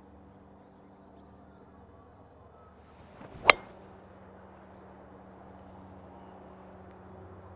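Golf driver striking the ball off the tee: one sharp crack about three and a half seconds in, with a brief swish of the swing just before it. A low steady hum runs underneath.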